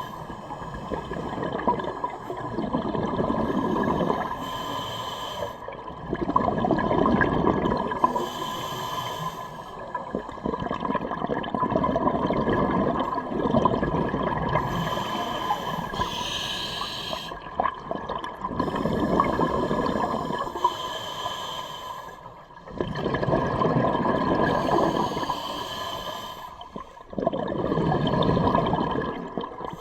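Scuba diver breathing through a demand regulator: a short hiss on each inhale, then a burst of exhaled bubbles rushing out, repeating about every five seconds.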